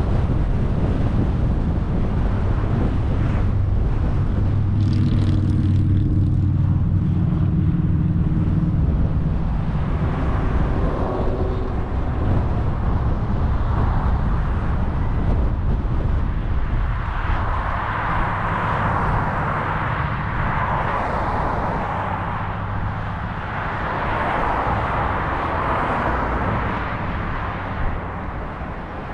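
Car driving on a road: steady engine and tyre noise. A low engine hum is prominent in the first third, and a rushing tyre-and-road noise swells twice in the second half.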